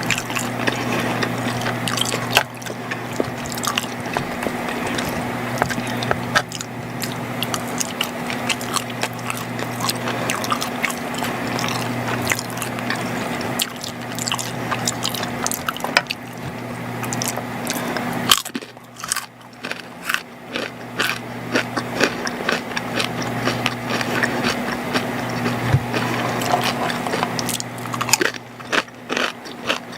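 Close-miked chewing and biting of macaroni and cheese: many small clicks and crackles of the mouth working the food, easing off for a couple of seconds past the middle. A steady low hum runs underneath.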